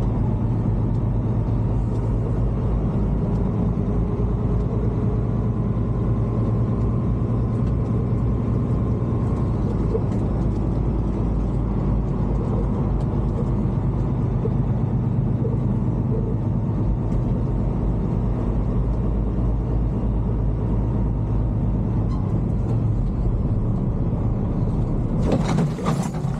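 Semi-truck heard from inside the cab while driving: a steady engine drone and road rumble. Near the end comes a short burst of sharp clicking or crackling.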